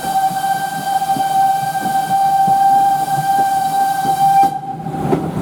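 Steam whistle of the Ty42 steam locomotive blowing one long steady note over the rumble of the moving train, cutting off sharply about four and a half seconds in.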